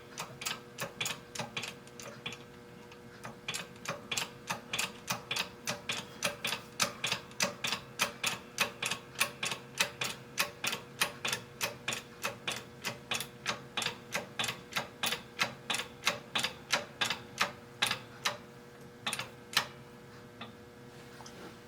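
A steady run of sharp clicks, about three a second, from a hand-operated shop fixture being worked on a piece of scrap metal. The clicks start a few seconds in and end with a few scattered ones near the end.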